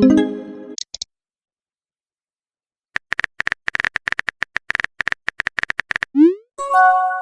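Phone-messenger sound effects: a chime fading out at the start, then about three seconds of rapid keyboard tap clicks, a short rising swoop about six seconds in, and a message notification chime of several tones near the end.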